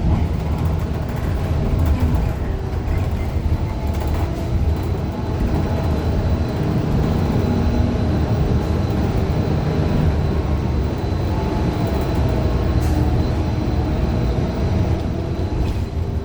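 Inside a 2015 Gillig Low Floor 40-foot CNG bus under way: its Cummins Westport ISL G natural-gas engine and drivetrain run steadily under a deep road rumble.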